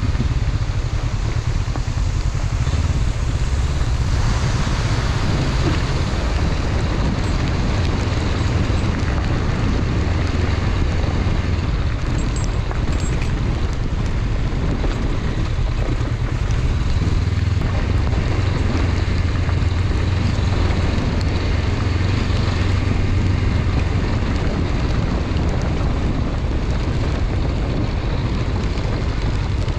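Honda CB500X parallel-twin motorcycle engine running steadily under way, mixed with a heavy rush of wind noise over the microphone.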